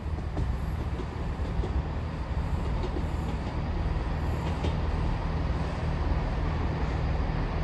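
TransPennine Express Class 802 bi-mode train running through the station: a steady low rumble and hum.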